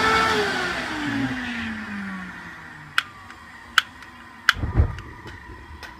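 An old vacuum cleaner serving as the air blower for a homemade forced-air gas burner blows a loud rush of air, its motor whine falling in pitch and fading over the first two seconds or so. A few sharp clicks and a thump follow later.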